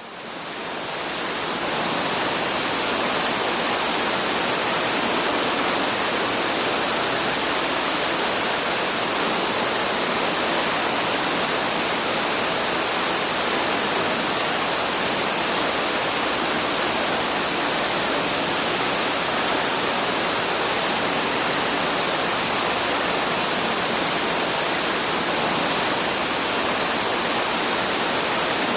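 Steady rushing water of a forest waterfall, an even dense hiss that fades in over the first couple of seconds and then holds level.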